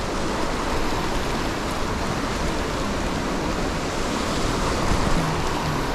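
Steady rushing of fast-flowing water, a loud, even noise with no breaks.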